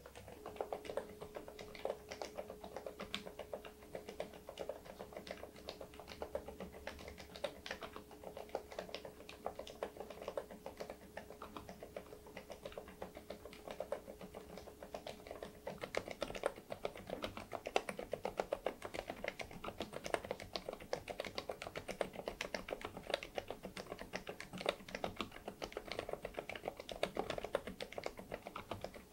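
Typing on an Interpixel IPK104 PRO full-size mechanical keyboard with Leobog Cotton Candy silent switches: a steady stream of soft, muffled keystrokes that gets faster and louder about halfway through.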